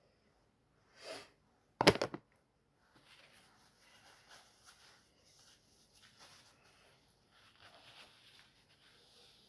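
Hand work cleaning excess silicone off a toilet: a short swish about a second in, then a sharp clattering knock just before two seconds in, followed by faint irregular rubbing and rustling of wiping.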